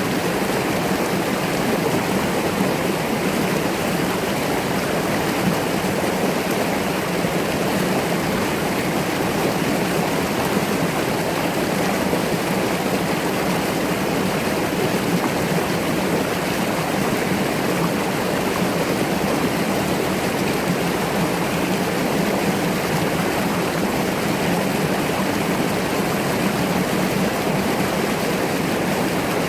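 Mountain stream flowing, a steady, even rush of water with no change throughout.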